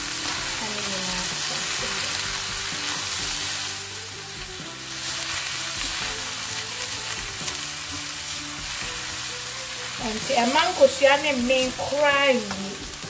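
Diced roast lamb, carrots, onion and scrambled egg sizzling in a stainless steel pan over high heat, stirred and scraped about with a silicone spatula; the sizzle is strongest in the first few seconds. A person's voice comes in near the end.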